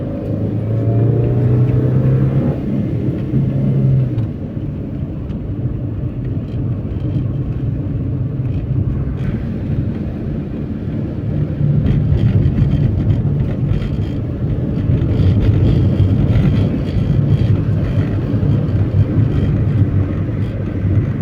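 A car driving: steady engine and road noise, with the engine pitch shifting in the first couple of seconds.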